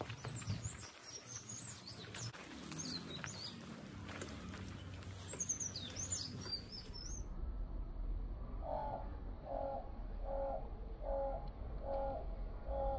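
Small birds chirping and twittering in quick, high, sliding notes; about halfway through this gives way to a repeated bird call of six even, mid-pitched notes roughly two-thirds of a second apart, over a low rumble.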